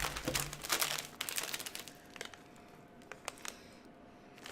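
Crinkling of a plastic snack wrapper being handled: dense crackling for about the first second, then a few scattered crackles.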